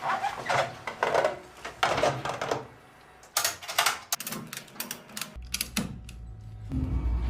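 A run of sharp mechanical clicks, then a Kawasaki Ninja motorcycle's engine comes in as a low steady rumble a little after five seconds, growing louder near the end.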